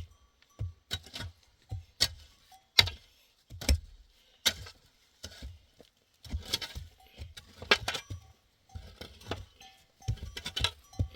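A series of irregular sharp knocks and clinks of hard objects, roughly one every second, each with a dull thud underneath.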